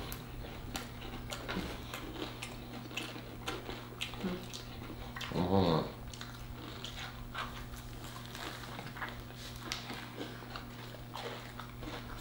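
Close-up chewing and biting into fried chicken sandwiches: many wet smacks, clicks and crunches of the fried crust. About five and a half seconds in there is a short hummed "mm", over a steady low hum.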